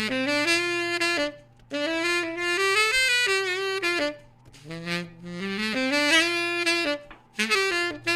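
Saxophone playing a jazzy melody in several short phrases that step up and down in pitch, with brief gaps between them and a steady low hum underneath.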